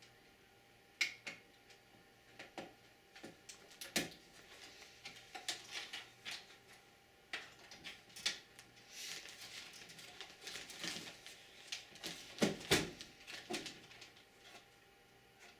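Irregular small clicks, taps and knocks of hands handling computer parts and cables inside a desktop PC case, with a stretch of rustling about halfway through and a few louder knocks a little later.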